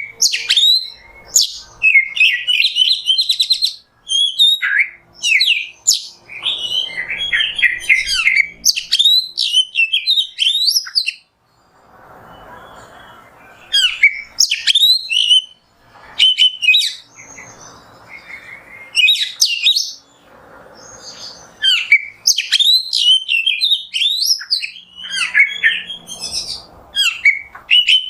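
Oriental magpie-robin (kacer) singing: a rapid, varied song of whistles, trills and sharp chirps in bursts, broken by short pauses.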